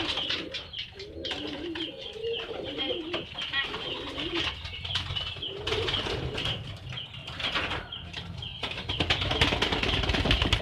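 Domestic pigeon cooing over and over as it drives ("giring") a hen, with scattered sharp clicks and taps.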